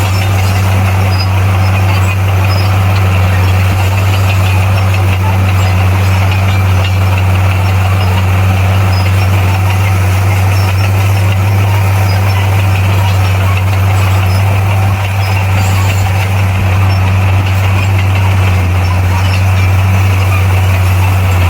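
Bulldozer's diesel engine running steadily, a constant low drone that holds the same pitch and loudness throughout.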